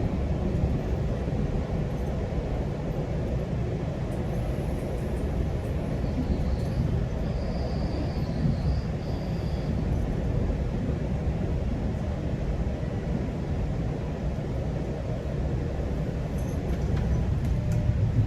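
GO Transit commuter train running on the rails: a steady low rumble of wheels and track. A faint high squeal comes and goes in the middle.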